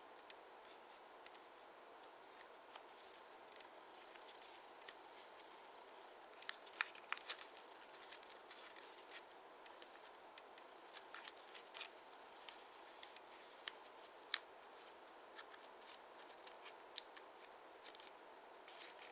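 Sheet of origami paper being handled, folded and creased by hand: scattered crisp clicks and light rustles over a faint steady hiss, with a tight cluster of sharper snaps about six to seven seconds in.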